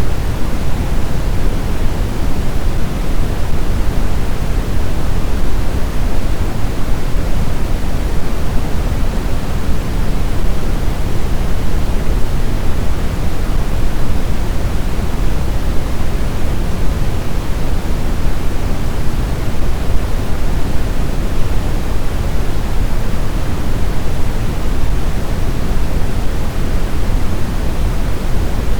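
Steady, deep rushing noise of snowstorm wind, even throughout, with no distinct gusts or howls.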